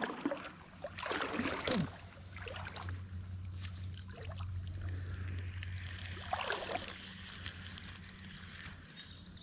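Creek water flowing and sloshing, over a steady low hum.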